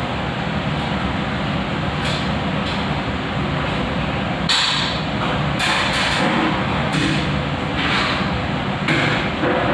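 A string of short knocks and scrapes, several in the second half, over a steady rushing noise with a low hum.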